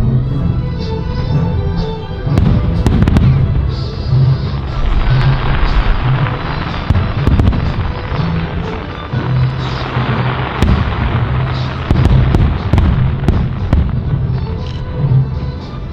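Fireworks display: shells bursting with deep booms and many sharp cracks, with a stretch of dense crackling in the middle, while music plays alongside.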